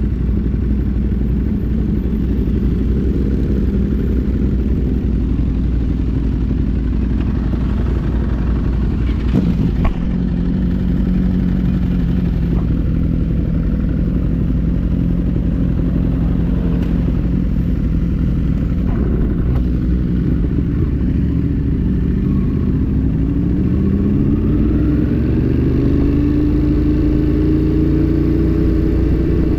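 A 1000 cc motorcycle engine running under way, with low wind rumble on the microphone. About two-thirds of the way through, the engine pitch climbs steadily as it accelerates. There is one sharp click about ten seconds in.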